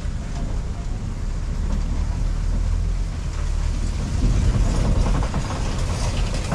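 Open-sided safari truck driving along a rough dirt track: a steady low engine and road rumble that grows louder about four seconds in.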